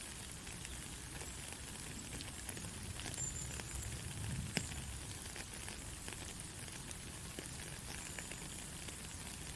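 Steady heavy rain falling, with scattered drops pattering close by and one sharper drop hit about four and a half seconds in.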